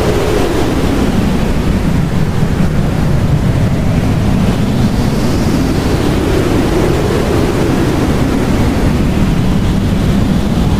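Blizzard wind blowing hard and steadily, a low rushing noise that swells and falls in pitch, with a faint high whistle rising and falling about halfway through.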